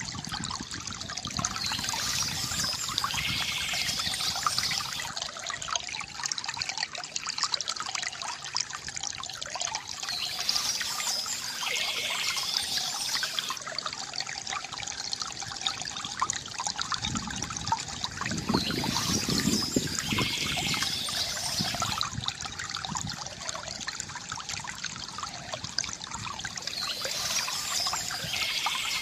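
Water trickling and splashing steadily from a bamboo fountain, with birds chirping in bursts that come back about every eight seconds.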